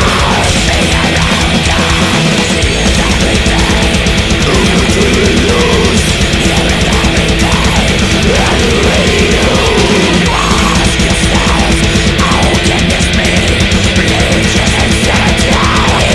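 Death/thrash metal: heavily distorted electric guitars over fast, dense drumming, loud and unbroken.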